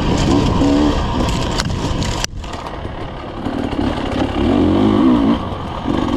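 Dirt bike engine revving up and down on the trail, its pitch rising and falling with the throttle. A little past two seconds in the sound drops off sharply, then the engine builds again.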